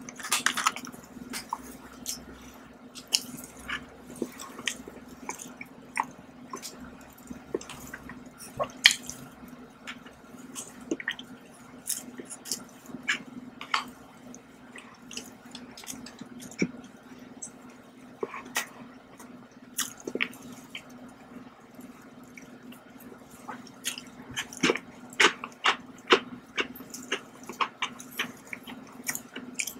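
Close-up chewing of a soft custard cake: scattered wet mouth clicks and smacks over a steady low hum. The clicks come thicker and louder in the last few seconds.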